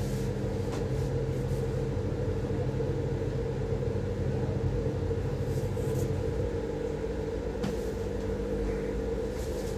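A steady low mechanical hum with a rumble, like an engine or motor running at an even speed, with a faint tick near the end.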